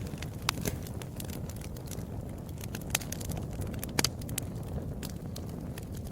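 Wood fire burning in a fireplace: a steady low rumble of flames with frequent sharp crackles and pops, the loudest about half a second in, near three seconds and about four seconds in.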